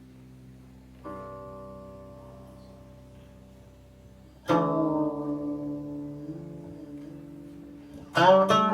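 Guqin (seven-string Chinese zither) played solo in slow plucked notes that ring and fade slowly. A soft note sounds about a second in, a louder one about halfway with a slight waver in pitch as it fades, then a quick flurry of plucks near the end.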